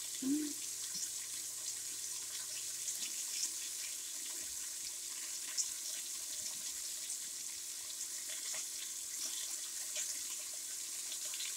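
Flour-dredged chicken breast fillets searing in olive oil in a deep pan: a steady sizzle with small scattered crackles.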